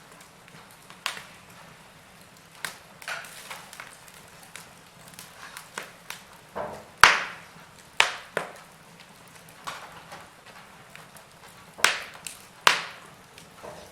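Log fire crackling: irregular sharp pops and snaps from burning wood, with the loudest snaps about halfway through and again near the end.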